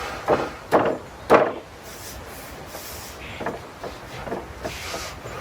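Three loud wooden knocks in the first second and a half, followed by several lighter knocks and taps.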